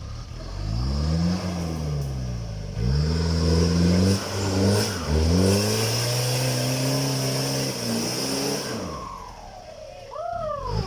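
Isuzu 4JB1 four-cylinder turbo-diesel revved in the stationary vehicle. It blips up and drops once, then rises again and is held for several seconds with a steady turbo whine above it. As the throttle closes near the end, the revs fall away and a short rising-and-falling chirp of turbo flutter sounds.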